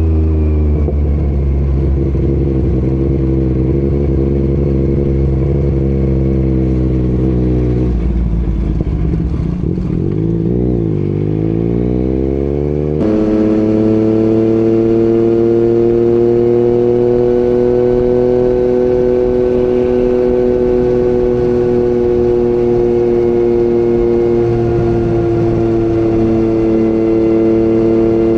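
Yamaha MT-09 three-cylinder engine with an Akrapovic exhaust, running at a steady speed. A few seconds in, its pitch dips and rises again as the throttle is eased and reopened, then it jumps suddenly to a higher, steady tone.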